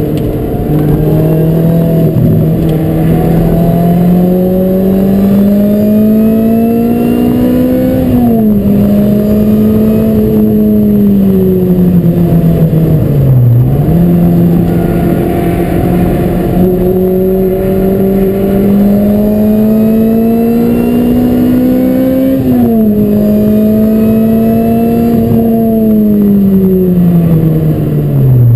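Lotus Elise SC's supercharged 1.8-litre four-cylinder engine, heard from inside the cabin while lapping a race track. The engine note climbs steadily under load for long stretches. It falls away after lifting off, about eight seconds in and again past twenty seconds, with a brief sharp dip and recovery near the middle and at the end as the driver slows for corners.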